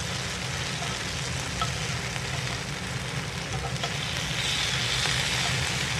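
Thick eggplant slices frying in hot oil in a cast-iron skillet: a steady sizzle that grows a little louder about four and a half seconds in, with a few light spatula scrapes against the pan.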